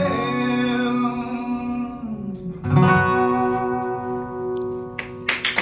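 Closing chords of an acoustic guitar song: the singer's held last note fades over a ringing chord, then a final chord is strummed about halfway through and left to ring out. Just before the end, clapping breaks out.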